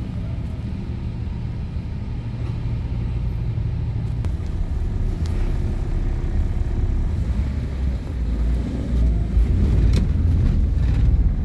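Car engine running at low speed, with a low rumble that grows louder about two-thirds of the way in as the vehicle moves up close.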